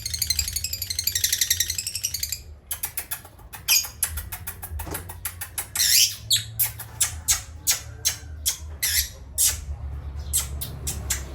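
Parrots chirping in a rapid, high trill for about two seconds, then a run of short, sharp squawks, about two or three a second, that stops about two seconds before the end.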